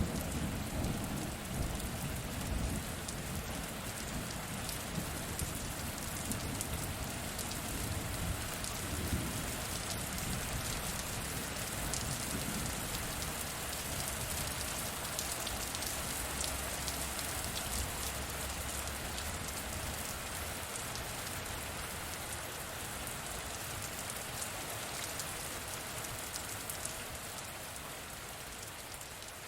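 Steady rain falling on a surface, with many fine droplet ticks. A low rumble of thunder dies away over the first few seconds, and a fainter low rumble comes through again mid-way.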